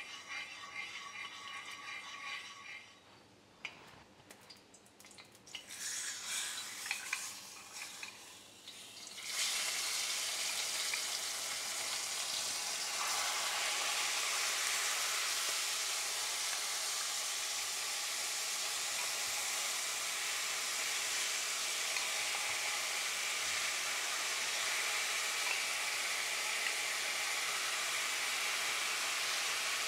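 Seasoned chicken wings going into hot oil in a pot. A loud, steady frying sizzle starts suddenly about nine seconds in and grows fuller a few seconds later as more pieces are added. Before that there is only fainter, patchy hiss and crackle from the oil.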